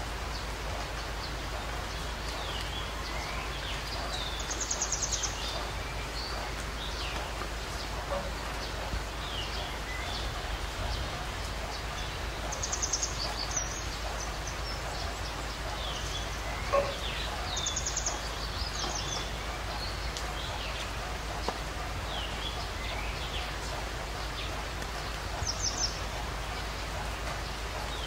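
Birds chirping and calling over steady outdoor background noise, with a short, high, buzzy trill that comes back four times, every five to eight seconds.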